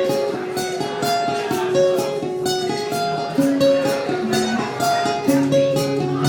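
Music played on plucked, strummed guitar, with held melody notes over a steady rhythm of strokes.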